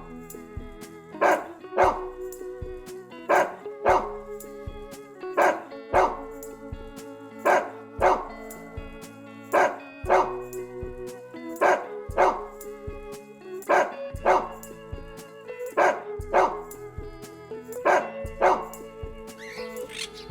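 A dog barking in pairs, two barks about half a second apart, repeated about every two seconds over background music.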